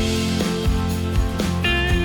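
Background music led by a plucked or strummed guitar, with notes changing every half second or so and a brighter high chord coming in near the end.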